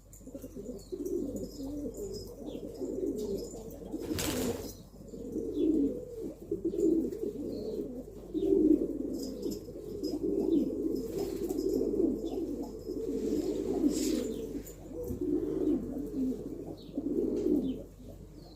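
Several domestic pigeons cooing, their low coos overlapping without a break. A brief rushing noise about four seconds in and another near the end of the second third cut across the cooing.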